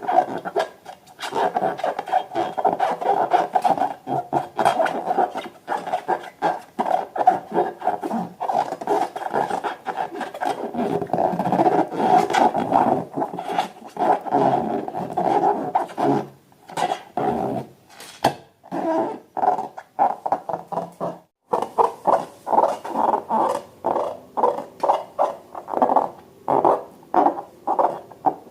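Slime and rubber balloons being squeezed and worked by hand: a loud, continuous run of squelches and rubbery squeaks. In the last several seconds it breaks into a quicker string of short, separate squishes.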